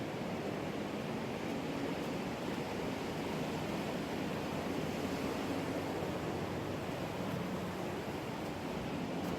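Ocean surf washing onto the shore, a steady rushing noise with no distinct breaks.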